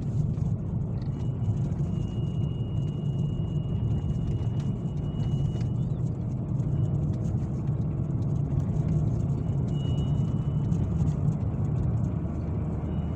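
BMW E60's N52B25 2.5-litre straight-six engine running with a steady rumble, over which a thin high whistle comes and goes: held for about four seconds from a second in, then briefly twice more. The owner puts the whistle down to a failing crankcase ventilation valve or an air leak somewhere in that system.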